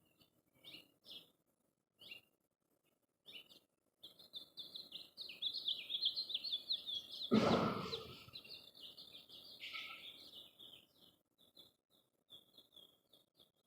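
Small birds chirping and chattering: a few scattered chirps, then a dense run of rapid chirps from about four seconds in until about eleven. A loud thump about seven and a half seconds in.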